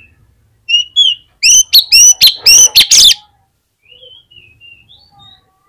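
Oriental magpie-robin (kacer) singing: two short whistled notes, then a loud, rapid run of about seven sweeping notes, followed by softer, quieter twittering near the end.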